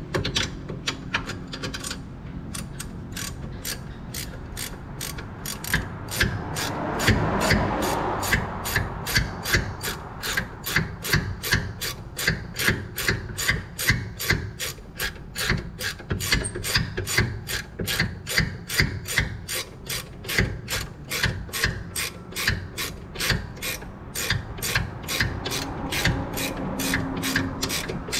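Hand ratchet wrench clicking through many short, even strokes, about two to three clicks a second, with a stretch of metal rubbing a few seconds in.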